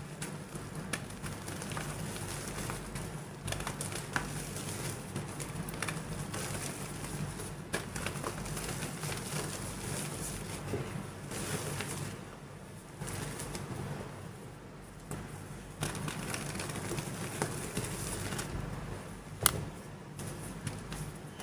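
Soft gym chalk being crumbled and crushed: gentle powdery crumbling with scattered small cracks, and one sharper crack about 19 seconds in.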